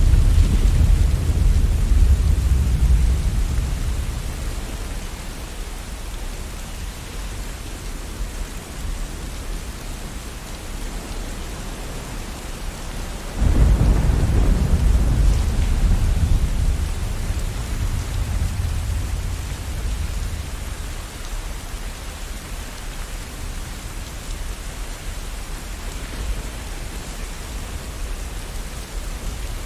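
Steady rain with thunder. A rumble is dying away at the start, and about halfway through a new thunderclap breaks in suddenly and rolls off over several seconds.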